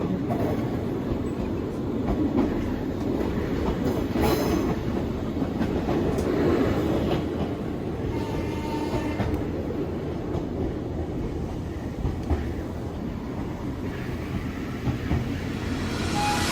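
Nankai 2200-series Tenku train running along the track, a steady rumble of wheels on rail with clickety-clack over the joints and a sharp click about four seconds in.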